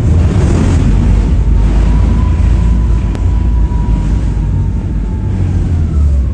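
Heavy wind buffeting on the microphone aboard a moving electric boat, a loud low rumble with rushing noise. A faint steady whine runs underneath and dips in pitch near the end.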